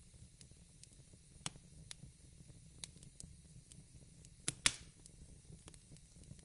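Fireplace crackling: scattered sharp pops at irregular intervals, with two louder ones close together about four and a half seconds in.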